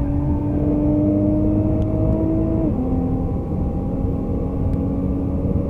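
Nissan GT-R R35's twin-turbo V6 accelerating, heard from inside the cabin: the engine note climbs steadily, drops sharply with a quick upshift about two and a half seconds in, then climbs again.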